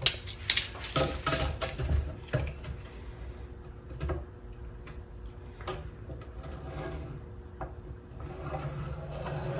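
Pencil scratching along a wooden board in a few short strokes, followed by scattered light knocks of tools and wood being handled.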